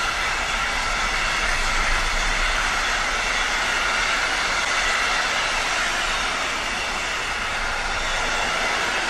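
Container freight train rolling past: a steady, unbroken noise of the wagons' wheels running on the rails.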